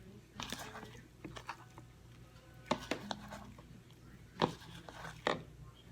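Slime being scraped and pulled out of a bowl: scattered small clicks and scrapes, a handful sharper than the rest.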